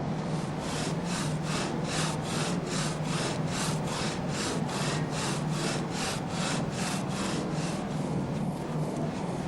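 Two-man saw cutting through oak, in quick regular strokes of about three a second that stop near the end, over a steady low hum.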